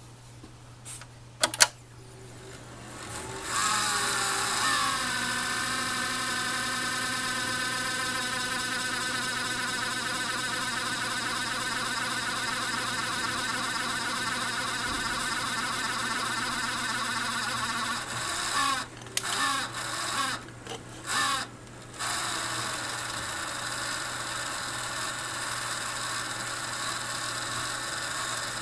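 Failed 40 mm chipset fan (Everflow T124010SL) on a motherboard, starting up after two sharp clicks and rising in pitch to a loud, steady whine of many wavering tones. The noise cuts out briefly several times about two-thirds of the way through, then resumes.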